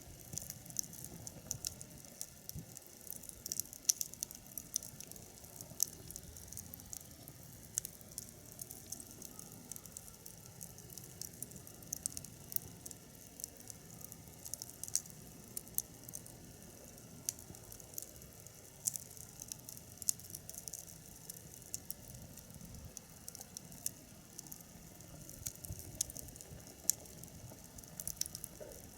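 Wood fire crackling in a fire pit, with scattered sharp pops at irregular intervals over a faint hiss.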